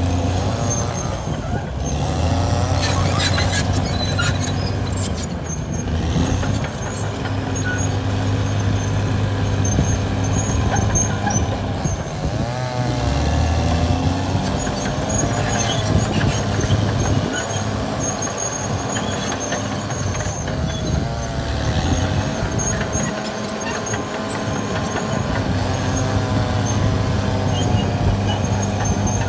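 Caterpillar D6R XL bulldozer working, its diesel engine running steadily, with squealing over it that rises and falls in pitch.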